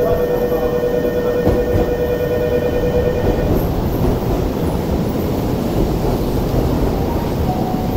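Tobu 70000 series electric train pulling into the platform and running past close by, a continuous loud rumble of wheels and running gear. A steady whine rides over it and stops about three and a half seconds in.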